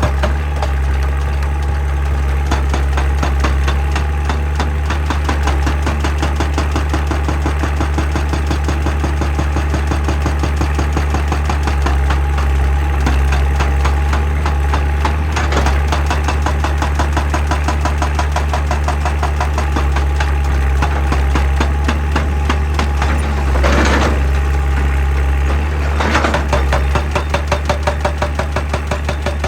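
Hitachi excavator's diesel engine running steadily with a strong low hum and fine regular pulsing, with two short louder noises late on.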